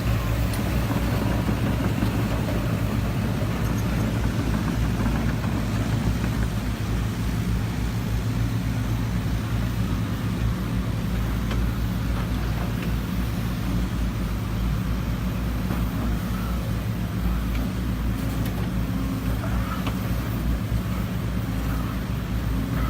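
JCB JZ140 excavator's diesel engine running steadily, an even low drone without revving or breaks.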